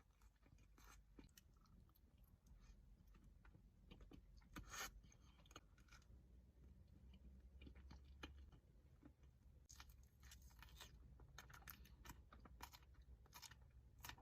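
Very faint chewing with scattered small mouth clicks and crunches; a slightly louder click about five seconds in.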